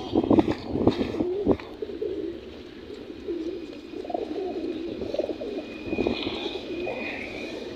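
Domestic racing pigeons cooing, a run of low wavering coos lasting several seconds, after a few short knocks in the first second or so.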